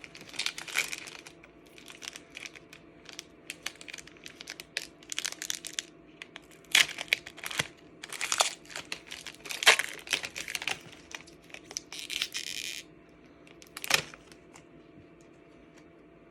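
Foil wrapper of a Pokémon booster pack crinkling and tearing as it is opened by hand, in irregular crackles, with one longer, steadier rip about twelve seconds in.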